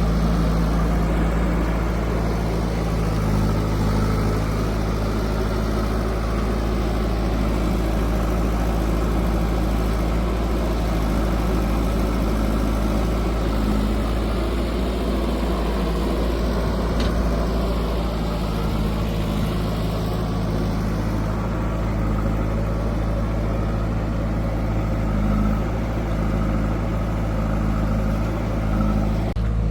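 Heavy diesel machinery engine running steadily at an even speed.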